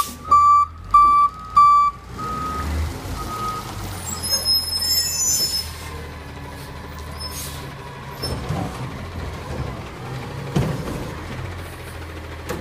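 Recycling garbage truck's reversing beeper sounding about two beeps a second, stopping about two seconds in, over the truck's steady low engine hum. A high squeal and a short hiss, like an air brake, come around five seconds in.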